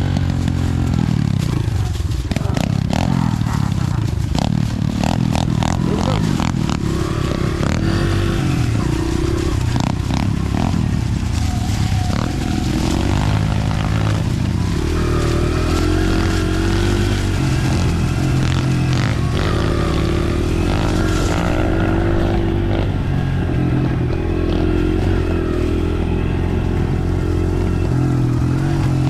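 Dirt bike engine running under load as the bike is ridden along a trail, its pitch rising and falling again and again with the throttle and gear changes. The bike has its muffler fitted, yet it is still loud.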